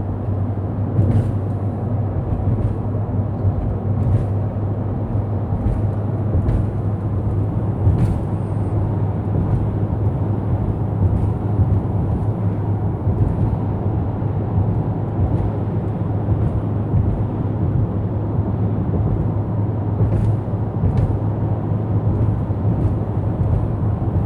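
Steady road and engine noise inside a moving car's cabin, with a constant low drone and a few faint ticks.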